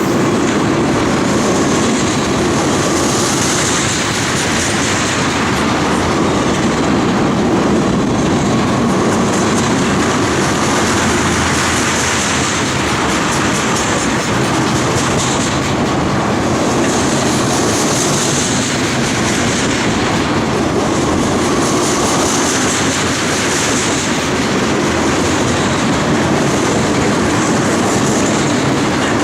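Train cars rolling past at close range, wheels clattering steadily over the rail joints, with a high hiss that swells and fades every couple of seconds.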